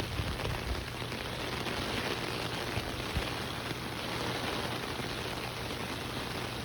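Rain from a tropical storm rain band falling steadily, an even hiss of drops on surfaces.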